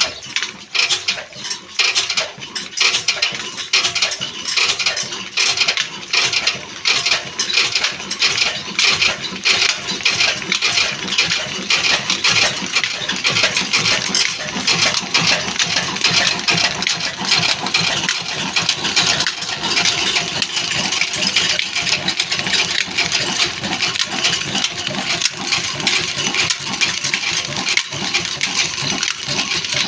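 Old Ruston diesel oil engine running with a rhythmic metallic clatter of firing beats, about two a second at first and quickening over the first ten seconds as it picks up speed, then a steady run.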